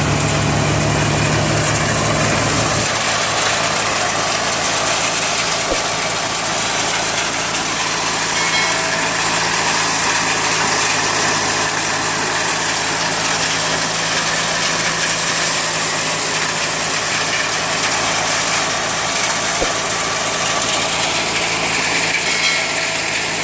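A John Deere 5045D tractor's diesel engine runs steadily while driving a multi-crop thresher, making a constant mechanical din. The deep engine hum drops back about three seconds in.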